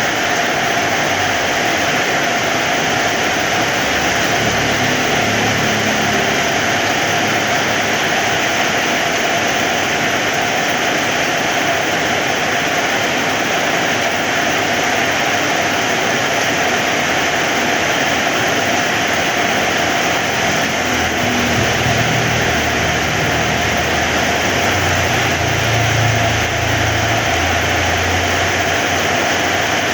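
Heavy rain falling steadily, with a low rumble swelling a few seconds in and again through the second half.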